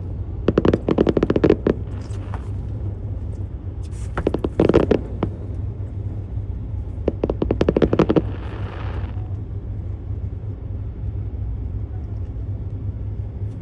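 Fireworks crackling: three bursts of rapid sharp pops, each lasting about a second, some followed by a short hiss, over a steady low rumble.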